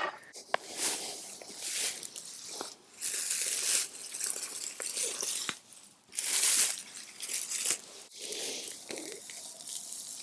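Digging and scraping in dry, hard soil: several scratchy strokes, each about a second long, with a few sharp clicks among them.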